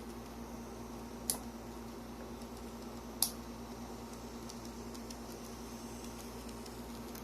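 Model train running on the track under a PWM controller: a steady motor hum with two sharp clicks about a second and two seconds apart, and a few faint ticks later.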